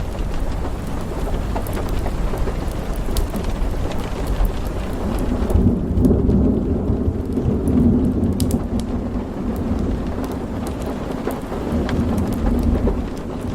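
Steady rain with a scatter of sharp fireplace crackles. About five seconds in, a long low roll of thunder builds and rumbles on for several seconds before easing near the end.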